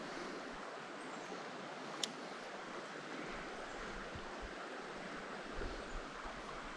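Creek water flowing steadily, an even rushing hiss, with one sharp click about two seconds in.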